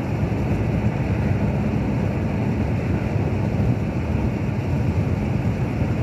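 Steady low noise of a car driving along a road: tyre and engine sound with some wind, even throughout.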